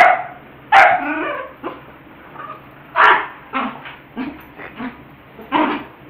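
A dog barking during play. Short, separate barks come loudest at the start, about a second in, around three seconds and near the end, with shorter, softer yips between.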